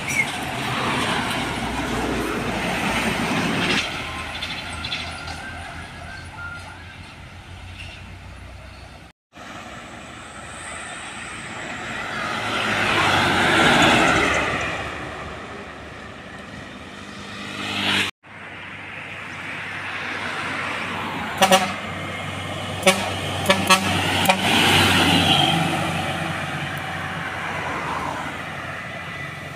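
Heavy trucks driving past one after another, each swelling up and fading away, with short horn toots. The sound cuts off abruptly twice.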